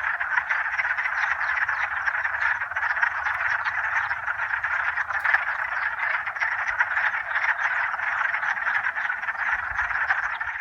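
A dense chorus of many frogs calling at once from a spring breeding pond, their many short calls overlapping into one continuous, unbroken din.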